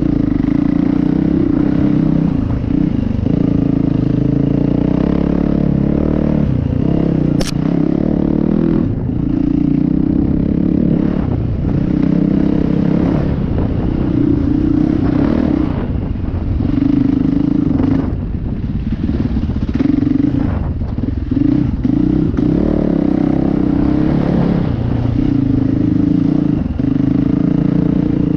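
Dirt bike engine running under load, the throttle opening and closing every second or two as the bike picks its way along a rough trail. One sharp click stands out about seven seconds in.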